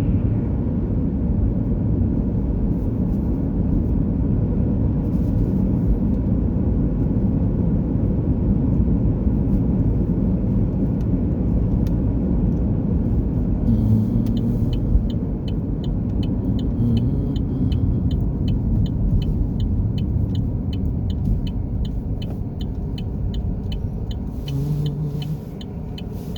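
Steady low rumble of a car on the move, engine and road noise. About halfway through, a regular high ticking starts at roughly three ticks a second.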